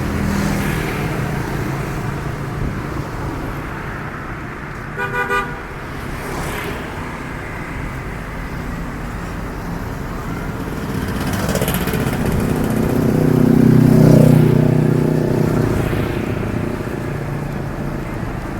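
Street traffic running steadily, with a horn beeping twice briefly about five seconds in. A heavier vehicle's engine grows louder and passes about two-thirds of the way through, then fades.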